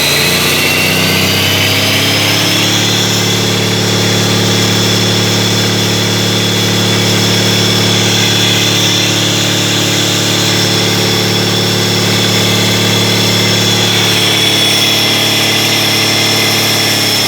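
Caterpillar 3176C inline-six diesel engine running. Its speed climbs over the first two or three seconds, with a high whine rising along with it, then holds steady.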